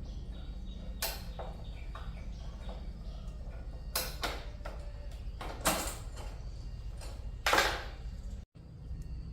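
Short knocks and scrapes of hand tools working on motorcycle parts, four or five separate strokes, the longest scrape about three-quarters of the way through, over a steady low hum. The sound cuts out for a moment near the end.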